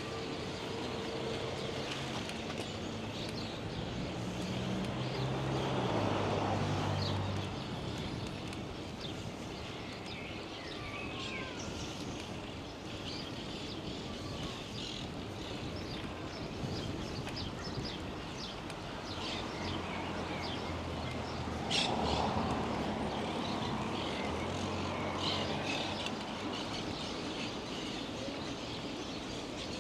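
Outdoor ride ambience: a steady rush of wind and rolling noise, with birds chirping throughout. A motor vehicle passes about six seconds in and another about twenty-two seconds in.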